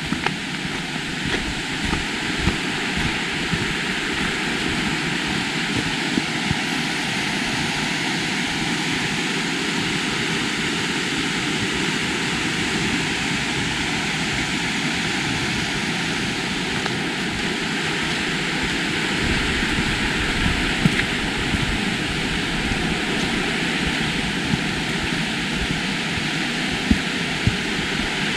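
River water rushing steadily over rocks, an even, unbroken roar.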